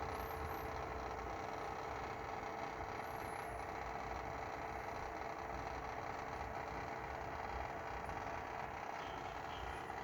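Steady hum with a constant tone from a BMW F30 with its engine switched off: a component keeps running after shut-down, which the owner links to a battery drain.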